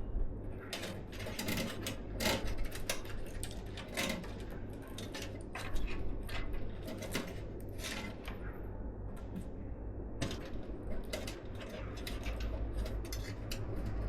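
Irregular clicks and taps of computer parts being handled and fitted during a PC assembly, over a low steady hum.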